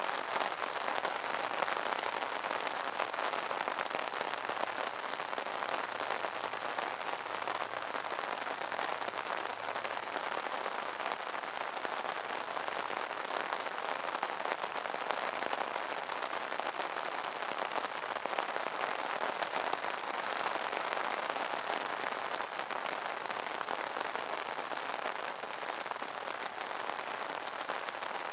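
Steady rain falling on an umbrella: a dense, even spray of small drop impacts on the canopy, with no let-up.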